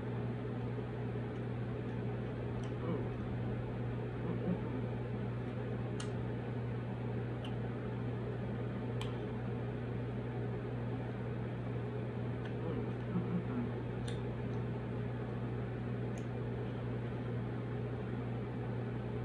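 Mouth-closed chewing of soft food, with a few faint small clicks, over a steady low electrical hum.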